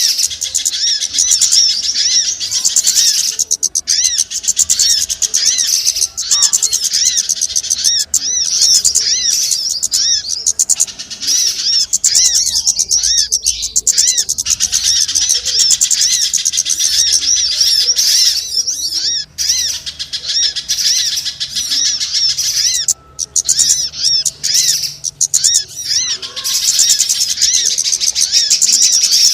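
Small birds chirping in a rapid, unbroken chorus of high-pitched notes, played as a lure call for trapping small birds.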